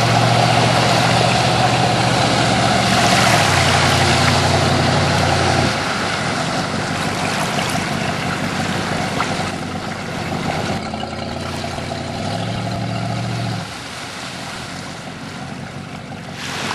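Bayliner speedboat engine running at a steady pitch. It drops to a lower note about three seconds in and cuts out near six seconds, leaving a rushing wash of water and wind, and the engine note comes back briefly near thirteen seconds.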